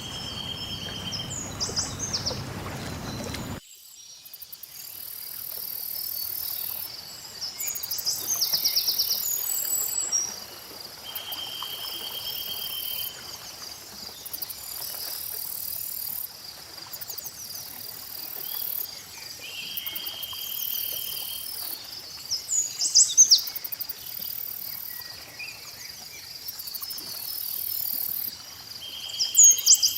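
Mixed lakeside nature ambience. Insects chirp steadily and high, songbirds give quick rising and falling calls at several points, and a short buzzing trill comes back about every eight or nine seconds. A low rushing sound of lapping water plays for the first few seconds and cuts off abruptly about three and a half seconds in.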